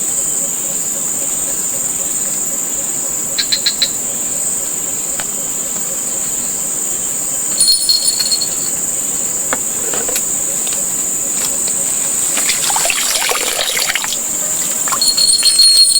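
Steady high-pitched drone of insects, with a few short chirps and clicks over it, a busier spell of clicks about three quarters of the way through.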